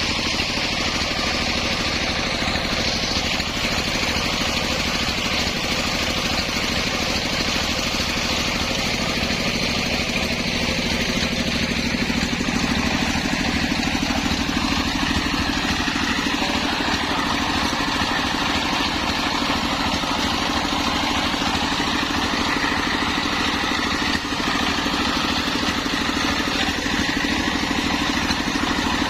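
Homemade engine-driven circular saw running steadily while sawing a coconut-palm trunk into beams. Its tone changes a little about twelve seconds in.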